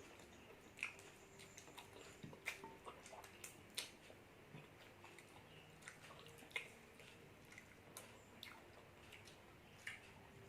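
Faint eating sounds: chewing with scattered small wet clicks and mouth smacks at irregular moments, a few sharper ticks among them.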